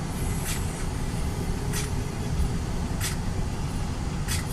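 Heavy truck cruising downhill on cruise control, heard from inside the cab: a steady low rumble of engine and road noise. Short hissing ticks recur about every second and a quarter.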